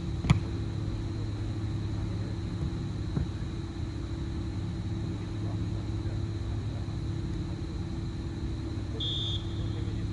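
Steady low background hum, with a sharp thump about a third of a second in, a fainter knock around three seconds, and a short high whistle-like tone near the end.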